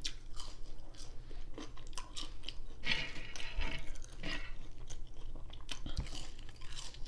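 A person chewing and biting French fries dipped in ketchup: wet mouth sounds with many small crunches and clicks.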